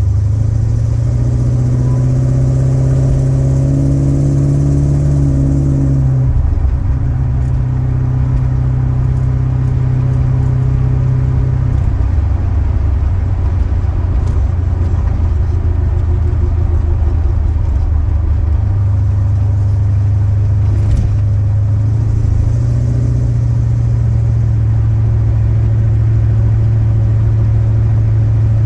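1969 Chrysler New Yorker's 400 V8 running through its Dynamax Ultraflow mufflers while driving on the freeway. The engine note climbs for the first few seconds and drops suddenly about six seconds in, then holds steady, with another dip and rise in pitch past the halfway mark.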